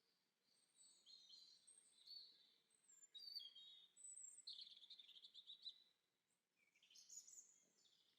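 Faint birdsong: quick high chirps and trills from several birds, breaking off briefly about six seconds in before another burst of song.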